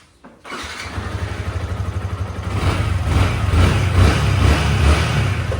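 Suzuki Hayabusa's inline-four motorcycle engine running, starting suddenly about half a second in and growing louder around the middle.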